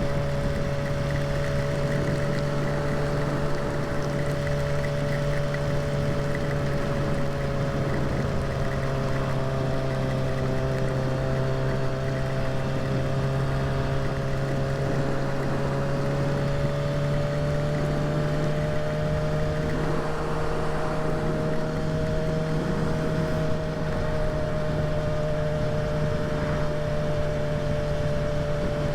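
Kawasaki ZX-6R's inline-four engine running at a steady cruising speed, its pitch drifting only slightly, over a steady rushing noise.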